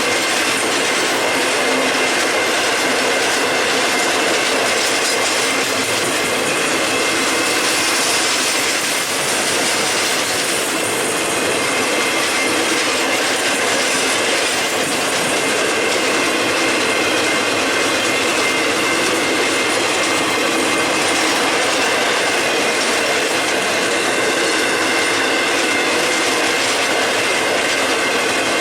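Freight train cars rolling past: steel wheels running on the rails in a steady rush, with faint high squealing tones from the wheels.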